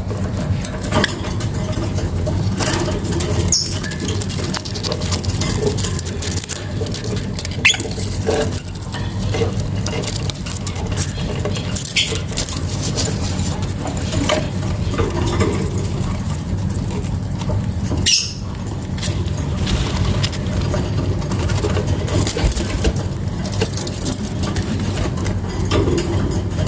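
Lovebirds giving short, high chirps every few seconds over a constant scratchy, crackling noise and a low rumble.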